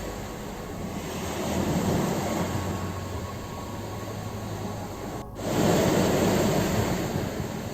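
Ocean surf washing onto a shore, a steady rush of water that swells around two seconds in. A brief sudden gap comes about five seconds in, followed by a louder surge of breaking water.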